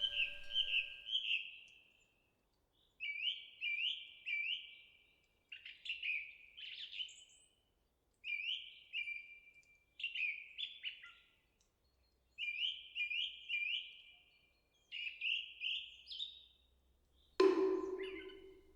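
A songbird calling in short phrases of two to four quick, high, downward-sliding notes, repeated with pauses of a second or so between phrases. Near the end a wooden moktak (temple wooden fish) is struck once, with a hollow ringing tone.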